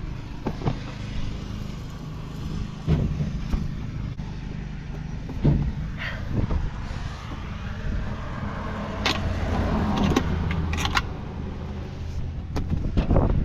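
An engine running steadily, with scattered sharp metallic clicks and knocks from hand tools and parts being worked loose during a machinery repair.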